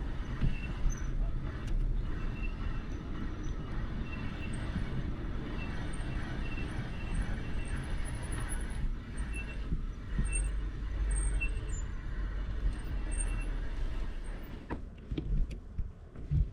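Wind rumbling on the microphone while riding a bike, with rolling road noise under it and short high chirps repeating over it. Near the end the rumble drops and a few sharp knocks sound.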